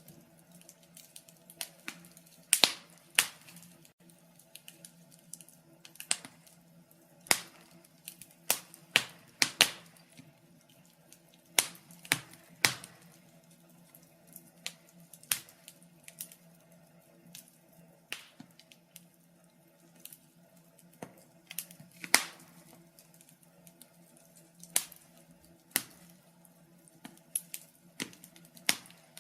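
Wood fire crackling: irregular sharp pops and snaps, some loud and many small, at uneven intervals over a faint steady low hum.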